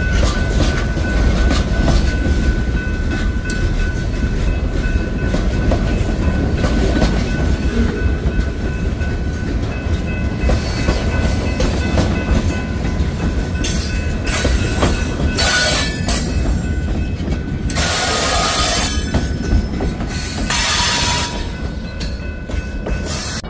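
Freight train rolling along the track: a steady low rumble with wheels clacking over rail joints and a thin, steady squeal from the wheels. Two short bursts of hiss come near the end.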